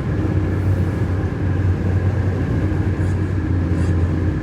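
Steady low road and engine rumble inside a moving car's cabin, with a couple of faint ticks about three and four seconds in.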